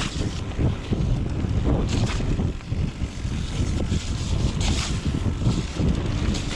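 Wind buffeting the microphone over the rumble of mountain bike tyres rolling on a rough trail during a descent, with a few brief hissing flare-ups.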